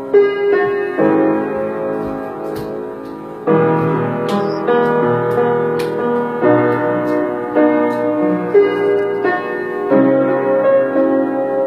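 Piano or keyboard playing slow, sustained chords, changing every one to two seconds.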